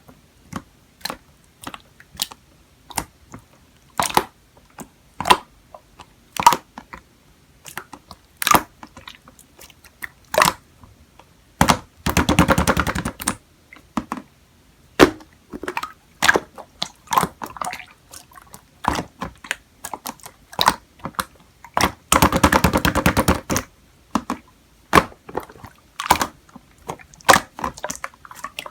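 Sharp clicks and taps at irregular intervals, with two rapid clattering flurries of about a second and a half each, one near the middle and one about three-quarters through.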